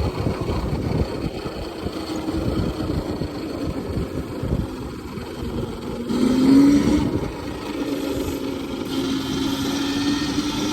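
Electric dirt bike's motor whining as it is ridden along a dirt trail, with wind and ground rumble on the microphone. The whine swells and rises in pitch about six seconds in as the bike speeds up.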